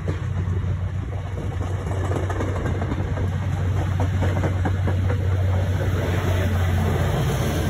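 A commuter train's diesel locomotive running at close range with a steady low hum, with scattered clicking from the train.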